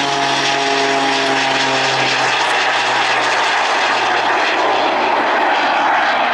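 Rich Goodwin's jet-assisted Pitts aerobatic biplane flying past. The engine's pitch falls slowly as it goes by and fades after about two seconds into a steady, loud rushing noise.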